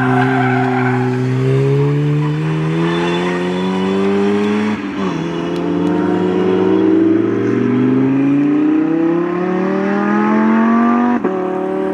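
Sports car engine under hard acceleration, revs climbing steadily through a gear, shifting up about five seconds in, climbing again and shifting up once more near the end.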